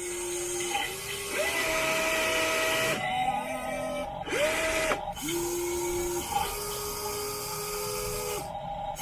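RC model excavator's small electric motors whining as it works, in a string of steady tones that each hold for a second or two, stopping and restarting at a different pitch as the machine's movements change.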